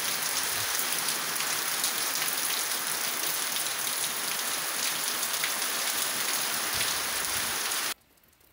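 Steady rain falling, heard from under a porch roof, with single drops now and then. It cuts off suddenly near the end.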